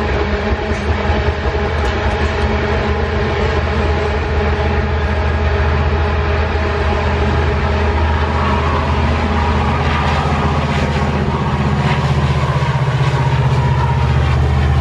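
Loaded iron-ore freight train rolling past at speed, the wagons' wheels running on the rails. A diesel-electric locomotive's engine working under power grows louder over the last few seconds as the locomotive draws near.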